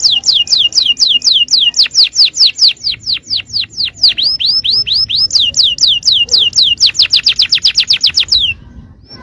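Canary singing a rapid run of repeated falling whistled notes, about five a second, switching briefly to up-curving notes about four seconds in, then speeding into a quicker trill before stopping near the end.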